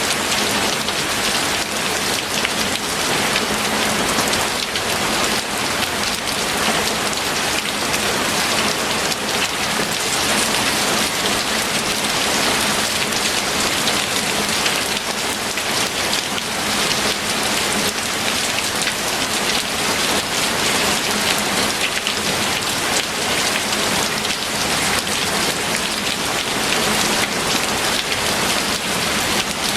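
Steady heavy rain falling, an even unbroken hiss of dense raindrops.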